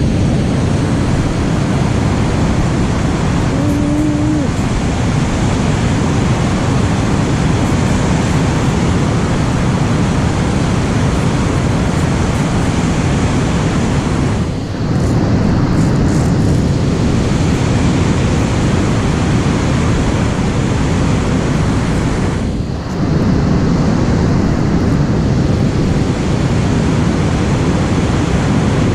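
Loud, steady rushing noise, dipping briefly twice, with a short tone about four seconds in.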